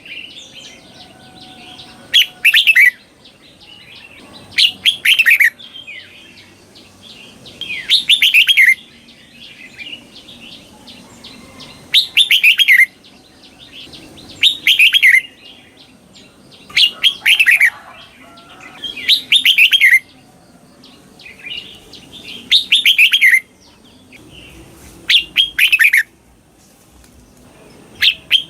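Red-whiskered bulbul singing its doubled song: short phrases of quick falling whistled notes, each given twice in rapid succession, repeated about every two and a half to three seconds.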